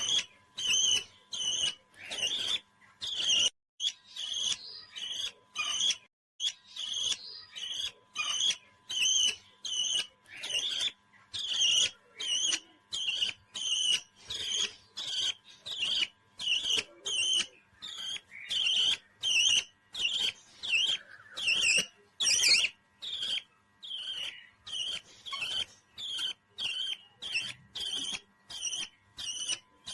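A parrot calling over and over in short, high chirping notes, evenly repeated at nearly two a second.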